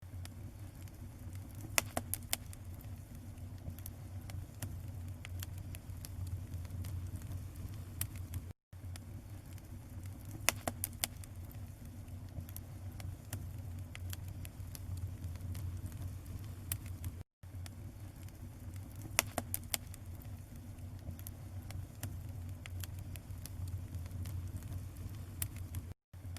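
Fire crackling: scattered sharp pops and snaps over a low steady rumble. It is an audio loop of about eight and a half seconds that repeats three times, with a brief cut-out at each join.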